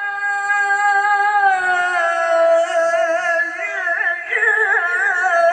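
Unaccompanied male voice chanting Arabic sholawat in the Quran-recitation style: a long note held steady, dipping a little, then breaking into fast melismatic warbles, with a new, stronger phrase starting about four seconds in.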